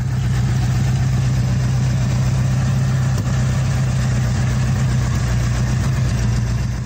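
Car engine idling steadily, a loud even low rumble.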